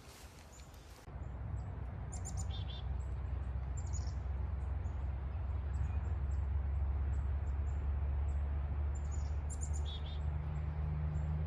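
Small birds chirping in short, high calls, repeated throughout, over a steady low rumble that starts about a second in and is louder than the birdsong.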